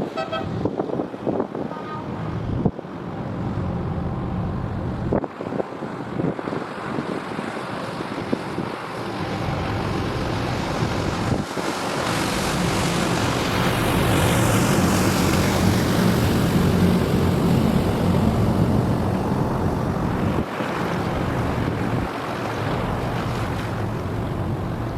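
A motor vehicle driving past close by over steady outdoor traffic and wind noise, swelling to its loudest midway, with a hiss that falls in pitch as it goes by, then fading.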